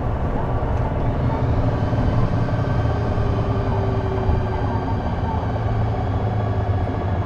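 J-Bus city bus's diesel engine running under way, heard from inside the cabin as a steady low drone with engine tones above it and a mid-pitched tone that sinks slightly in the middle. This bus is known for a strange noise from around the exhaust or turbocharger.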